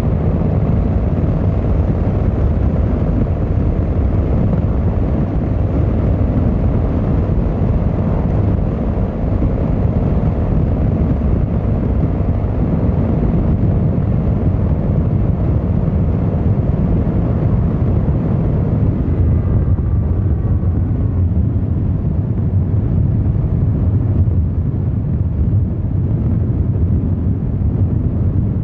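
Yamaha XVZ1300 Royal Star's V4 engine and exhaust running steadily while riding, a low, continuous note. The upper part of the sound thins out about two-thirds of the way through.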